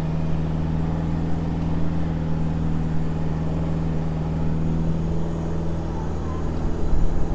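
Isuzu D-Max ute's engine heard from inside the cabin while driving on beach sand: a steady drone at even revs over tyre and road noise.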